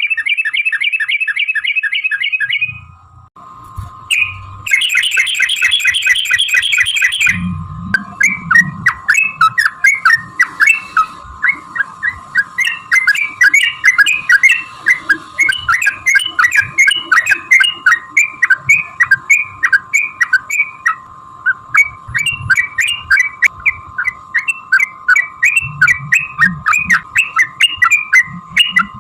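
Yellow-vented bulbul (trucukan) singing in rapid, continuous chattering phrases: two fast trills, then a long unbroken run of short bubbly notes, over a steady high hum.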